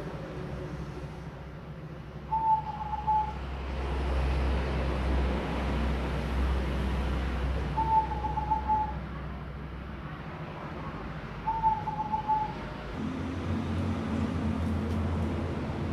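Zebra dove cooing: three short, slightly broken coo phrases a few seconds apart, over a steady low background rumble.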